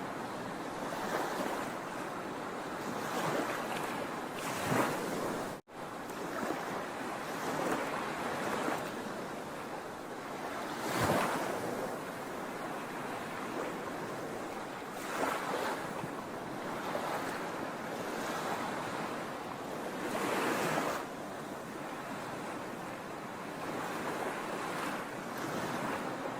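Sea waves breaking and washing on the shore: a steady rush of surf that swells louder every few seconds as waves come in. A very brief cut-out about five and a half seconds in.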